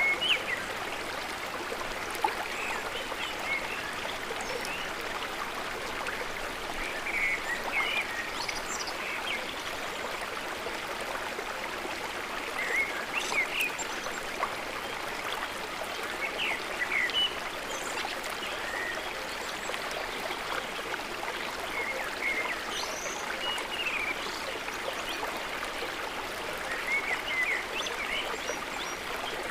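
Small birds chirping in short, scattered calls over a steady rushing background that sounds like running water.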